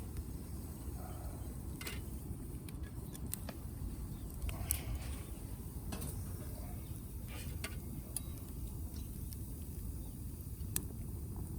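Wood fire burning, with irregular sharp crackles and pops over a steady low rumble; the loudest pops come about halfway through and near the end.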